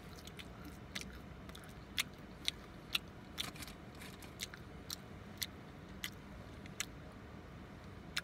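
A person chewing food close to the microphone, with about a dozen sharp, irregular wet mouth clicks and smacks.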